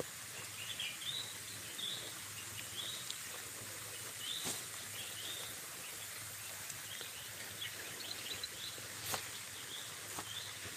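Small birds chirping again and again over a steady background hiss, with two sharp clicks, about four seconds and about nine seconds in.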